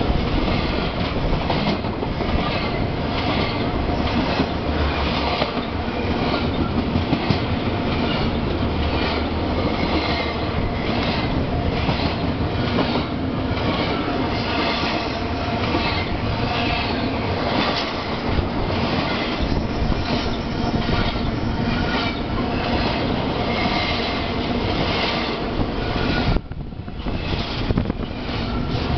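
Double-stack container train passing close at speed: a loud, steady rumble of steel wheels on rail with rapid, regular clacking as the wheelsets roll by. The noise drops briefly near the end.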